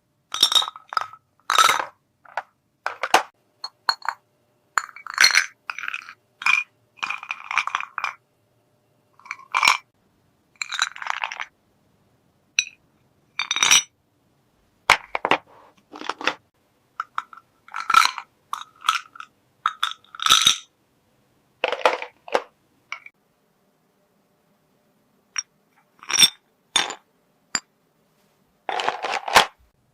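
Small hard toy pieces being handled, clinking and tapping against each other in many separate short knocks with brief ringing, with pauses in between.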